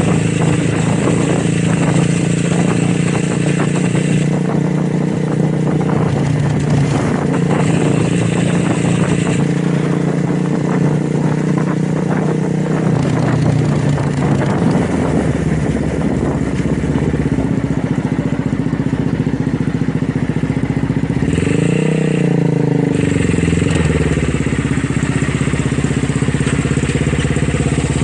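Motorcycle engine idling with a steady exhaust note; about 21 seconds in the throttle is blipped once, the pitch rising and falling back to idle.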